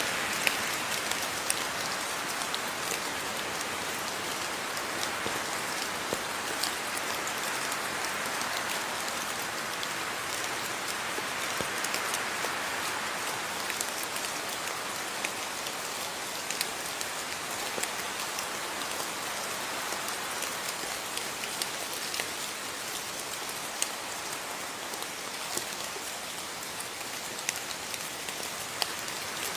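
Steady rain falling, an even hiss with scattered sharper drops landing close by.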